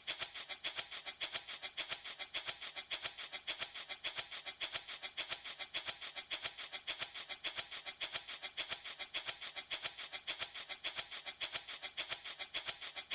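A handmade baby rattle shaken continuously in a fast, even rhythm, several strokes a second, with a bright, high rattle of loose pieces.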